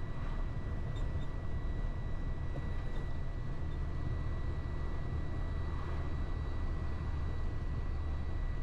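Steady engine and road rumble heard inside a delivery truck's cab while it is driving, with a faint, steady high-pitched whine.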